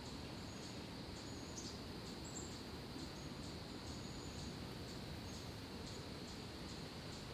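Outdoor ambience: a steady low background hiss with faint, high, short bird chirps and ticks every half second or so.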